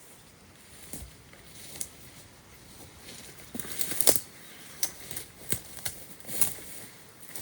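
Dry leaves and twigs crunching and snapping in an irregular series of crackles, thickening after about three seconds, with the sharpest snaps about four seconds in and again near six and a half.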